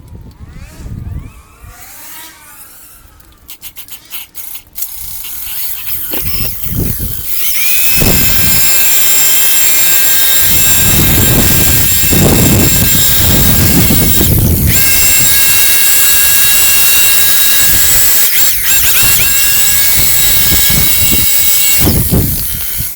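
A power tool spins up about seven seconds in and runs steadily at high speed with a high whine, dipping briefly in the middle and stopping just before the end.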